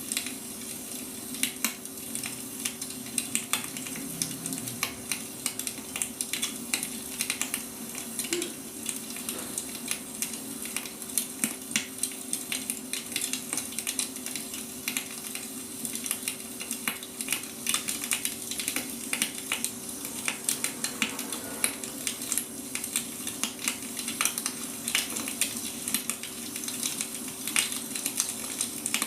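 Wood fire crackling, with frequent irregular pops and snaps over a steady hiss. A steady low hum runs underneath.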